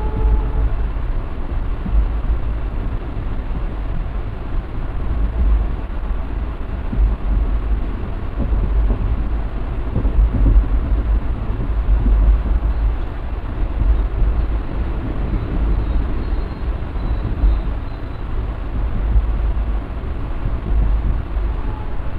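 Passenger train running along the track, heard from on board: a continuous, deep rumble of the moving coach.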